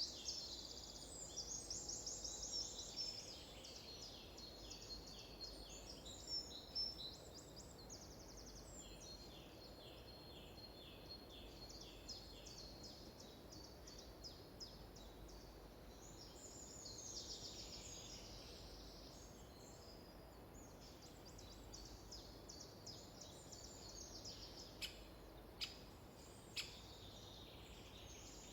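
Faint songbirds singing in a forest: series of high, rapid chirping trills repeating over a soft background hiss, with a few sharp clicks near the end.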